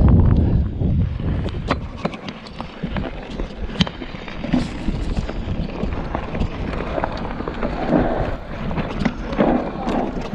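Irregular clicks, knocks and rattles of movement over a rough trail, with wind rumbling on the microphone, heaviest at the start.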